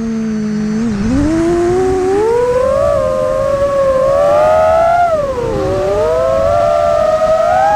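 Quadcopter drone's motors and propellers whining, several pitches gliding up and down together as the rotors change speed. The pitch is low about a second in, climbs, dips briefly near the middle and rises again.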